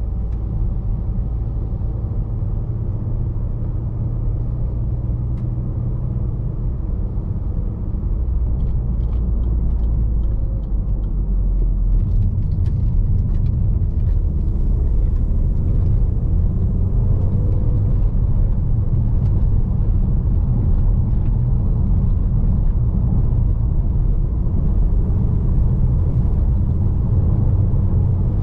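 Onboard driving noise of a Range Rover Evoque 2.0 turbocharged petrol four-cylinder: a steady low engine and tyre rumble that gets a little louder about twelve seconds in, with scattered light clicks through the middle.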